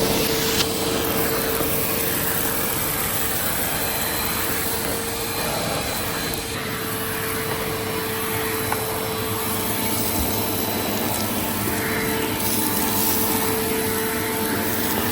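Bissell CleanView compact vacuum cleaner running steadily, a constant motor whine over the rush of air, with an occasional faint tick.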